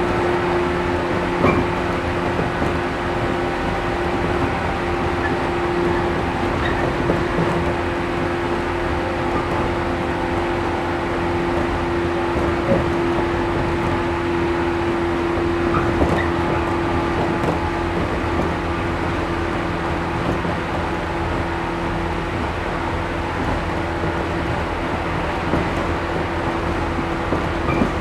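Interior running sound of a JR 113 series 1500-subseries resistance-controlled electric train under way: a steady rumble of wheels on rail with a steady hum, broken by a few sharp knocks about 1.5, 13 and 16 seconds in and again near the end.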